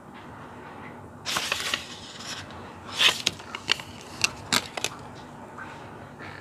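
Small hard plastic parts of an action-figure display stand being handled and fitted together. There is a short rustle, then a louder clatter about three seconds in, followed by several sharp plastic clicks.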